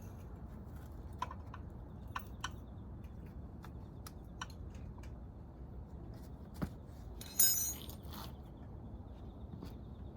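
Hand tools and small metal engine parts clicking and tapping during the teardown of a Kawasaki Z400GP engine's top end, with a brief metallic jangle about seven seconds in.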